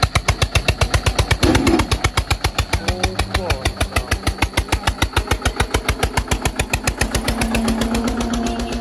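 Tractor's diesel engine chugging steadily, a heavy beat of about eight thuds a second, as it works to pull the stuck vehicle; a steadier engine hum joins about three seconds in.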